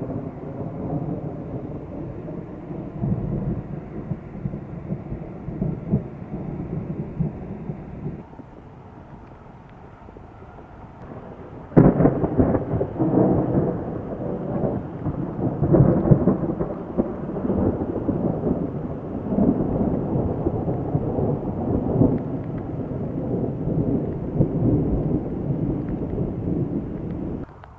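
Thunder rolling and rumbling, easing off about eight seconds in. About twelve seconds in a sudden sharp thunderclap breaks, followed by a long rolling rumble that cuts off abruptly near the end.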